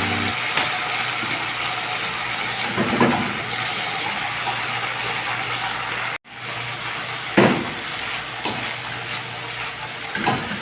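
Food sizzling in hot oil in a pan, a steady frying hiss with a few knocks of a utensil against the pan. The sizzle drops out for a moment about six seconds in.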